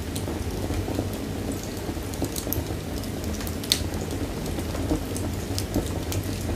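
Wood fire burning in a fireplace: a steady low rumble of flames with scattered sharp crackles and pops, the loudest pop about two-thirds of the way in.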